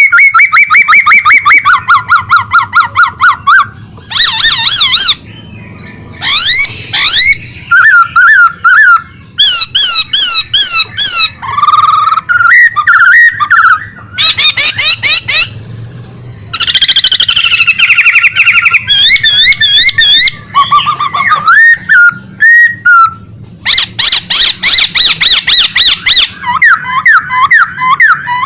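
A songbird singing loudly and continuously, in long phrases of rapid trills and quickly repeated whistled notes, with short pauses between phrases.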